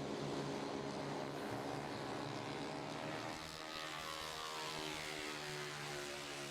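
Faint racing scooter engines running at high revs, with a falling pitch from about three and a half seconds in as they go past or ease off.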